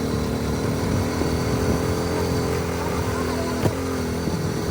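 Small Hero motorcycle engine running steadily while riding over a rough off-road track, with one sharp knock about two-thirds of the way through.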